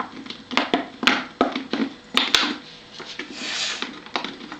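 A scatter of sharp clicks and light knocks, several in the first two and a half seconds, with a short breathy hiss a little past the three-second mark.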